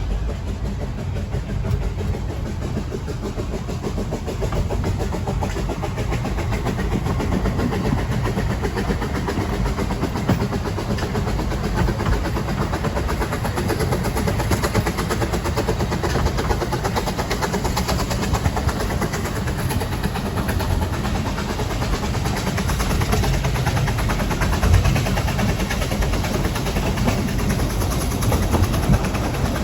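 Narrow-gauge railway train running with a steady low rumble and rattle that grows slightly louder in the second half.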